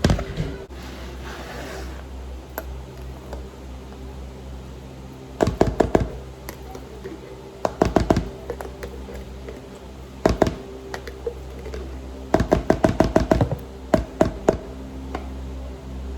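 Quick bursts of sharp knocking, several strokes in a row about six a second, repeated five or six times: a kitchen utensil striking a board or bowl during food preparation. A steady low hum runs underneath.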